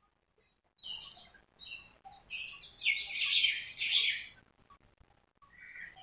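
Birds calling and chirping in a run of high chirps that builds to a dense, loud burst about three to four seconds in, then stops.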